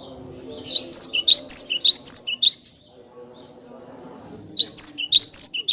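Cinereous tit (glatik batu) singing: two bouts of quick, sharp whistled notes, each note falling in pitch, about three or four a second. The first bout starts about a second in and lasts about two seconds; the second starts near the end.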